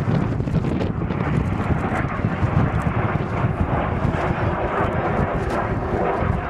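Fixed-wing aircraft engine noise, steady and continuous, with a faint engine tone showing through from about two seconds in; wind buffets the microphone.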